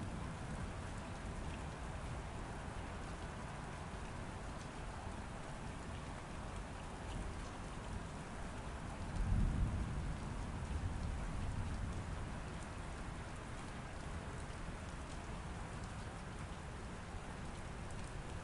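Steady heavy rain falling, with a low roll of thunder swelling up about halfway through and fading away.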